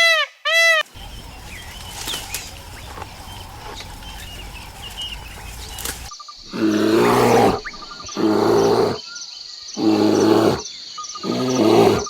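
A last pair of honking bird calls, then outdoor ambience with faint bird chirps, then a large animal calling four times: long, low, hoarse calls about a second long, repeated every second and a half or so.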